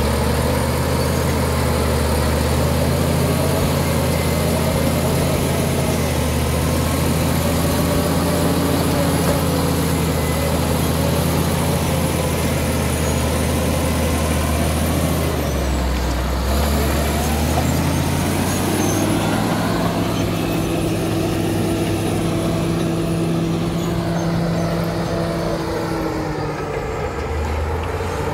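Caterpillar D7 bulldozer's diesel engine running steadily at work. Its note shifts and drops about sixteen seconds in, then settles again.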